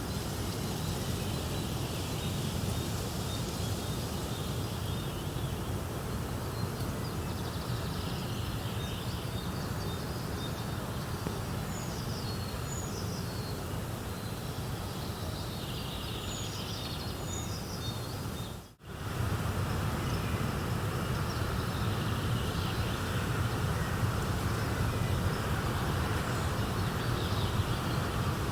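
Nature ambience: a steady rushing noise with small birds chirping over it, the chirps thickest through the middle. The sound cuts out abruptly for a moment about two-thirds of the way in, then resumes.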